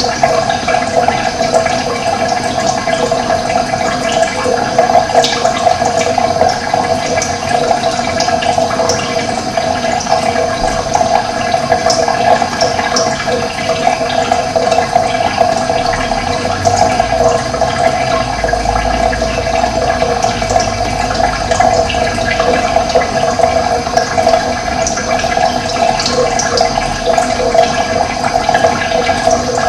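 Steady rush of running water, even throughout, with a low rumble underneath for a few seconds about halfway through.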